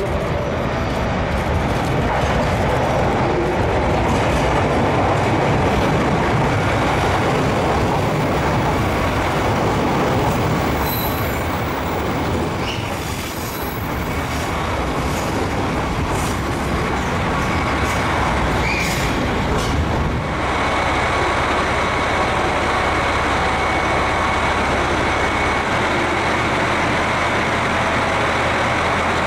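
Train moving through a station: steady rolling noise with brief wheel squeals around the middle, settling into a steady low hum after about two-thirds of the way.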